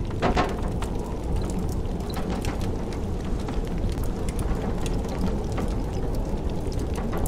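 Wood fire crackling with scattered sharp pops, one louder pop just after the start, over the steady low rumble of blizzard wind.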